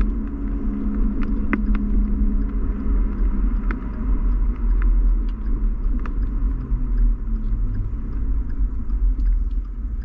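Steady low rumble of a car on the move, heard from inside the cabin, with an engine hum and scattered light clicks.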